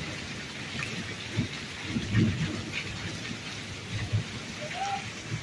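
Steady heavy rain falling on a paved street, with short low rumbles rising out of it a few times.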